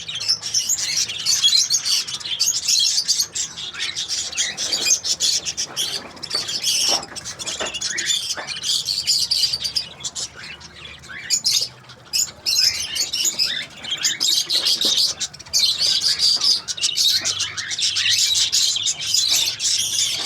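A flock of budgerigars chattering and chirping continuously, many short warbling calls overlapping, with brief lulls now and then.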